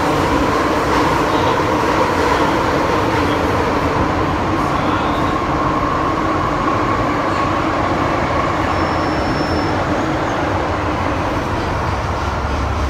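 MTR M-Train electric metro train running between stations, heard from inside the car: a steady rumble of wheels and running gear with a held whine near the middle of the range.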